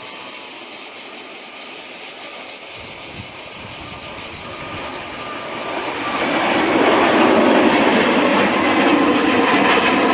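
Jet airliner engines: a steady high whine, with a rumble that comes in about a quarter of the way through and swells louder over the second half as the aircraft draws nearer.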